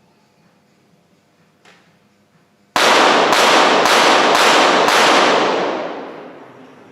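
.22 Short rapid-fire pistol firing a five-shot timed series, five sharp shots about half a second apart, about three seconds in, each ringing on in a long echo that dies away over the next couple of seconds.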